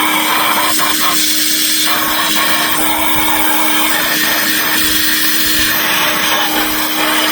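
Pressure washer running and spraying, a loud steady hiss over a constant motor hum, blasting degreaser and carbon off a flathead V8 part.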